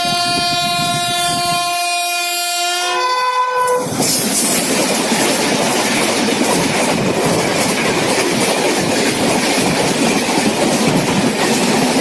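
Indian Railways locomotive horn held for about three and a half seconds, stepping up to a higher note just before it stops. Then an LHB-coach express train rushes past close by, wheels clattering over the rail joints.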